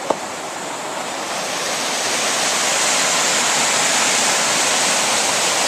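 Rushing stream water, a steady roar that grows louder over the first two seconds or so and then holds. There is a brief click right at the start.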